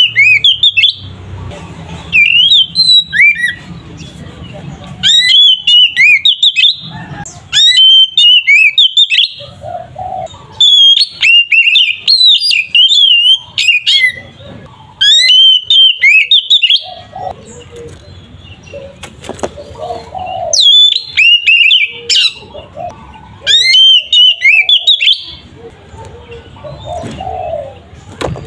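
Oriental magpie-robin (kacer) in full song, loud 'ngeplong' style: rapid, varied whistled phrases full of quick up-and-down glides, sung in bursts of a second or two with short pauses between.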